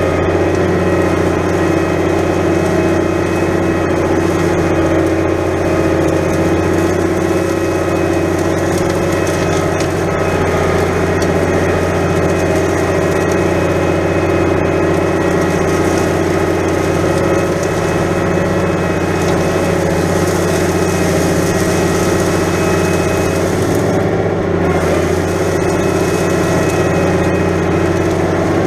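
New Holland 100-90 tractor's diesel engine running steadily at a constant speed while pulling a plough through wet, heavy ground.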